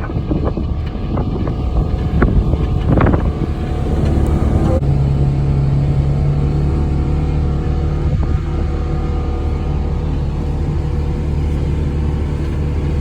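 Polaris off-road vehicle's engine running as it drives, with a few knocks and rattles in the first three seconds, then settling into a steady drone about five seconds in.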